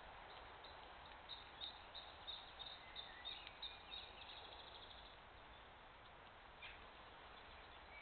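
Faint wild birdsong: a quick run of short, high chirping notes in the first half, with another brief call near the end, over a steady background hiss.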